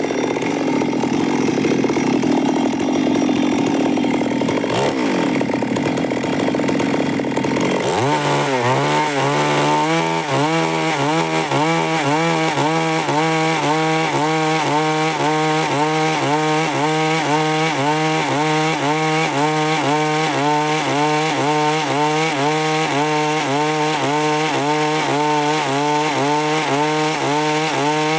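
Stihl MS 382 two-stroke chainsaw running at high revs while sawing wood. About eight seconds in the sound changes from a rough cutting noise to a steady engine tone that wavers evenly up and down in pitch.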